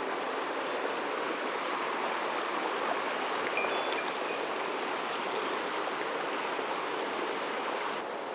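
Mountain stream running over rocks: a steady, even rush of water, with a few faint ticks about halfway through.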